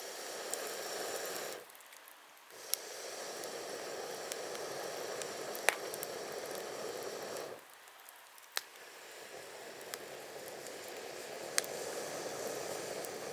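Wood campfire burning with sharp crackling pops. Under the pops runs a rushing hiss that swells over several seconds and cuts off abruptly twice.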